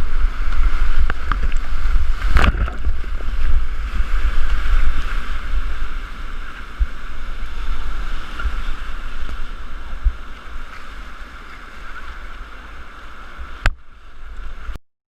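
Rushing river whitewater around a kayak, over a heavy low rumble of water and wind buffeting the camera microphone, with a sharp knock about two and a half seconds in and another near the end. The rush slowly grows quieter, then cuts off suddenly just before the end.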